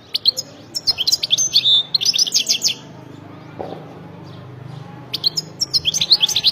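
European goldfinch singing in two bursts of rapid, high twittering: one through the first three seconds, another starting about five seconds in.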